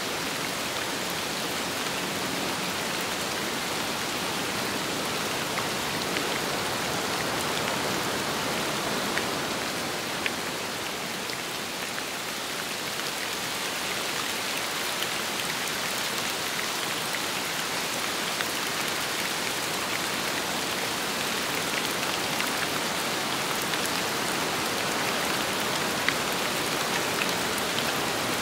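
Steady rain with wind, a dense hiss with scattered sharp drop ticks, easing slightly for a few seconds about ten seconds in.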